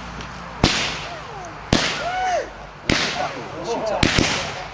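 Consumer firework cake firing in sequence: four sharp reports about a second apart, each trailing off in a hiss.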